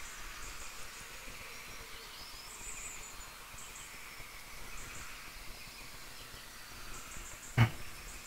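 Faint bird chirps over a low steady background hiss, with one sharp knock about seven and a half seconds in.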